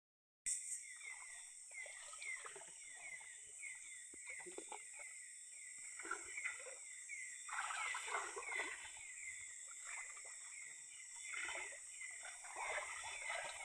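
Night-time forest chorus of insects and frogs, a steady high hum with a rapid string of short falling chirps, over irregular water sloshing from wading in a shallow muddy stream. The splashing grows louder in the second half.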